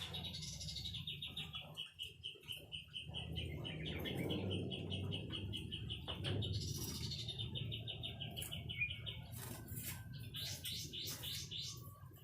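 White-rumped shama singing a long, rapid, even rattling trill at one pitch for about nine seconds, then a few short runs of quick chattering notes near the end.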